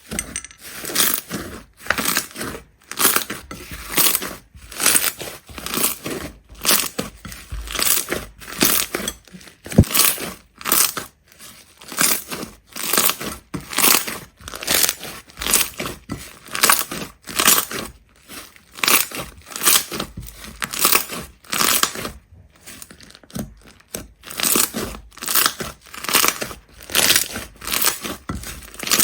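Crisp crunching and crackling, repeated in quick strokes about twice a second with a few short pauses, as of a crunchy material being pressed, squeezed or cut.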